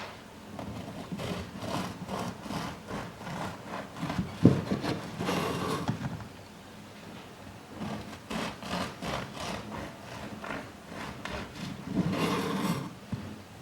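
Hand-work sounds: repeated rubbing and scraping strokes on a hard surface, with a sharp knock about four and a half seconds in and busier scraping near the middle and again near the end.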